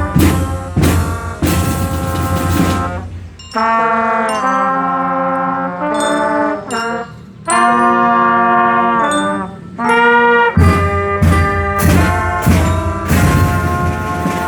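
Marching band playing: brass holding loud chords, with drums and cymbal crashes in the first few seconds and again from about ten seconds in, and a stretch of brass alone in between.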